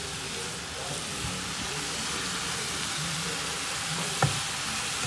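Grated carrots sizzling in ghee in a pan while a wooden spatula stirs and turns them, a steady soft frying hiss; the carrots are still releasing their water. One sharp knock a little past four seconds in.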